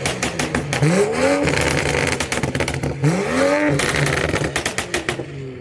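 A car engine revved hard twice, its pitch climbing and dropping back each time, amid a rapid string of sharp exhaust pops and cracks.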